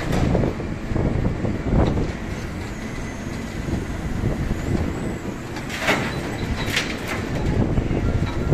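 City street traffic rumbling, with heavy vehicles passing and two short hisses about six and seven seconds in.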